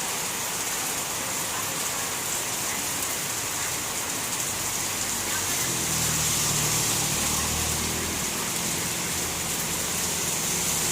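Heavy rain pouring steadily, a constant hiss. A low rumble joins about halfway through.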